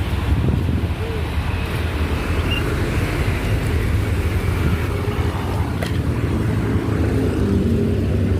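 A vehicle engine running steadily, a loud low hum with some road or wind noise over it.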